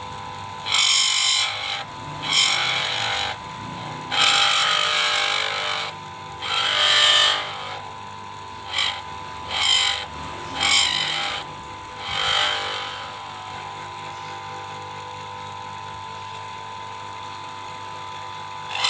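A small lathe runs with a steady whine while a cutting tool scrapes against a spinning PVC pipe in repeated short bursts. The scraping stops about 13 seconds in, leaving only the lathe running.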